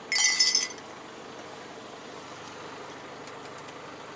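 A short high hiss lasting about half a second at the start, then a truck engine idling steadily.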